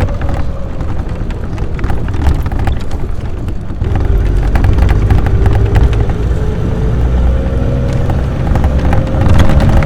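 AC Buckland's six-cylinder engine pulling on the road, with wind and road noise. A whine drops away early on, then climbs steadily and gets louder from about four seconds in as the car gathers speed.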